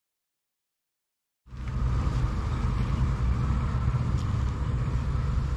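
Dead silence for about a second and a half, then a motorcycle engine running steadily with a low, even rumble.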